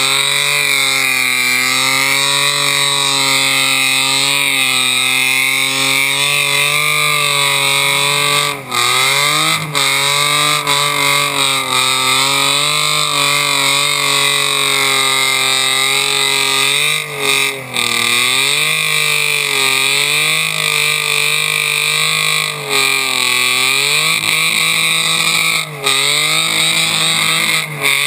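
BMW E36 328i's 2.8-litre straight-six held at high revs in a burnout, the rear tyres spinning on wet concrete. The revs drop briefly and climb back several times.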